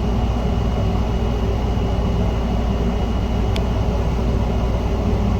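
Steady low machine hum, with one light click about three and a half seconds in.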